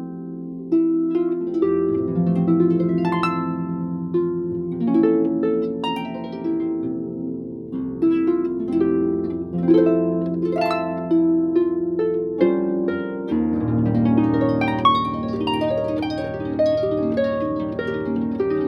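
Harp music: plucked notes and chords ringing over low sustained bass notes, the harmony changing every second or two.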